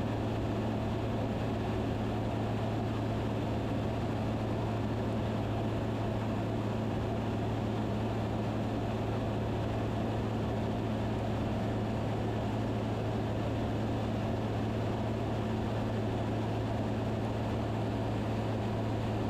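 Steady cockpit drone of a Van's RV-10's piston engine and propeller in descent, an even hum with a strong low tone and no change in pitch.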